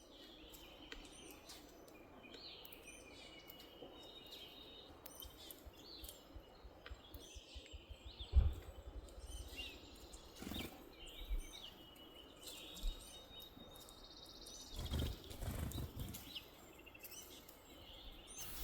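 Several small birds chirping and trilling, faint and steady over open ground, with a few soft low thumps; the loudest comes about eight seconds in.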